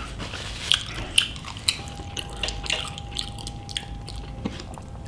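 A person chewing food close to the microphone, with wet smacks and a scatter of sharp mouth clicks.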